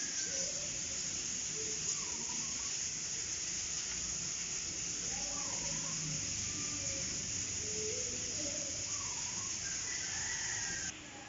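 Steady rain hiss with short bird calls scattered over it, now and then. The rain sound cuts off abruptly near the end, leaving a much quieter background.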